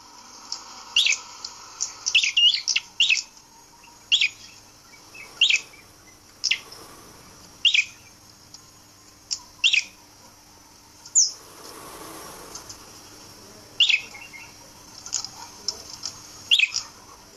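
Red-headed prenjak giving short, sharp, high chirps, singly or in quick pairs, roughly one a second. A soft rustle comes about two-thirds of the way through.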